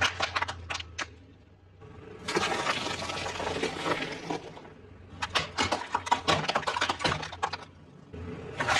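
Crunchy eating sounds: bites and chewing of crispy fried food, with bursts of dense crackling between sharp clicks.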